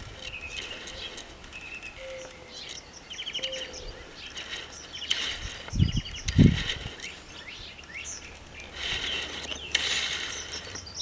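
Small birds chirping, with many short high calls and quick trills of rapidly repeated notes. Two dull low thumps come about halfway through.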